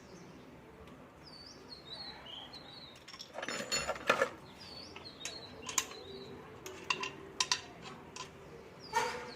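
Small birds chirping over and over in short high calls, with scattered sharp metallic clinks and knocks, a cluster about three to four seconds in and another near the end.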